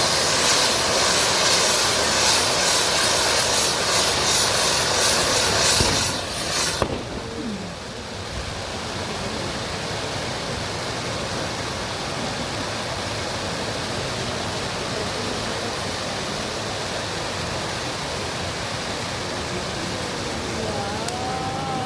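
Fireworks crackling and hissing densely for about seven seconds, then stopping abruptly, leaving a steady murmur of the open square with a few wavering whistle-like tones near the end.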